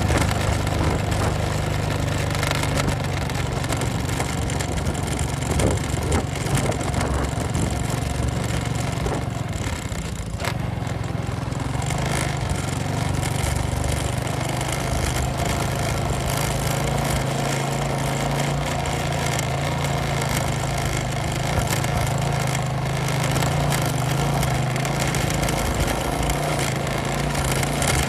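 Motorcycle engine running steadily while riding, easing off briefly about ten seconds in, with rushing noise over it.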